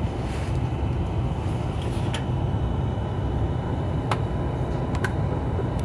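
Steady low rumble of a double-decker InterCity train heard from inside the passenger cabin as it rolls slowly through a station, with a few short sharp clicks about two, four and five seconds in.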